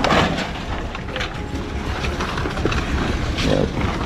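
Wind rumbling and buffeting on the microphone, with a few faint short sounds over it.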